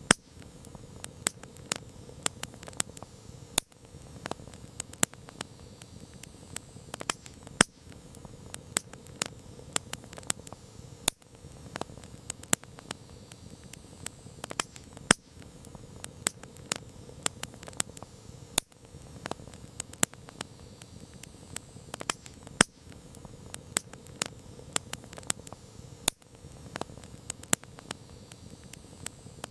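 Campfire crackling: irregular sharp pops and snaps of burning wood, several a second, over a low steady hiss of the flames.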